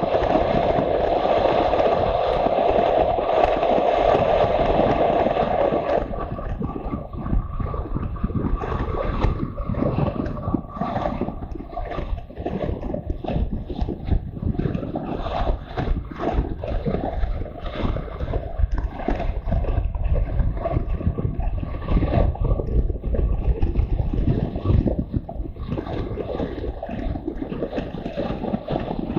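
Wind rushing and buffeting a camera microphone on a moving motorcycle, with rumble from the road and engine underneath. The sound changes about six seconds in, from a steadier hum to rougher, gustier buffeting.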